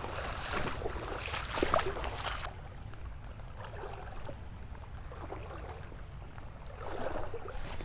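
Water sloshing and splashing, likely around a wading angler's legs in a shallow creek, for about the first two and a half seconds, then a quieter wash of moving water.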